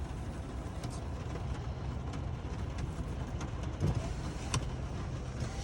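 Truck engine idling, a steady low rumble heard inside the cab, with a few light clicks and one sharper click about four and a half seconds in.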